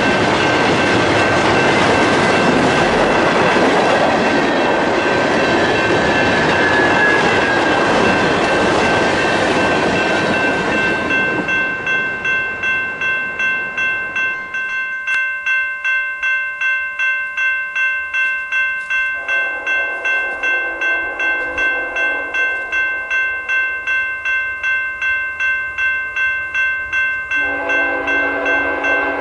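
Freight train cars rolling past with a steady rumble of wheels on rail, fading as the last cars clear about a third of the way in. A bell rings about twice a second throughout. An approaching diesel locomotive sounds its horn in a long chord blast about two-thirds of the way through and again near the end.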